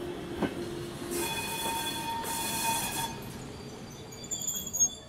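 Old passenger coaches rolling past on the track, with wheels squealing in high steady tones for a couple of seconds and in thin, very high squeals near the end.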